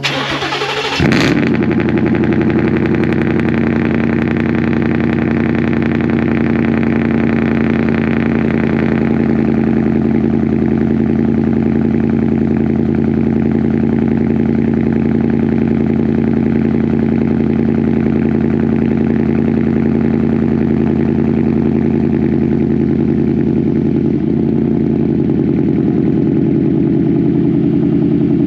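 2018 Ford F-150's 5.0 Coyote V8 cold-starting through a Borla ATAK cat-back true-dual exhaust. The starter cranks briefly, the engine catches about a second in and settles into a steady, loud cold idle, whose upper rasp eases off about nine seconds in.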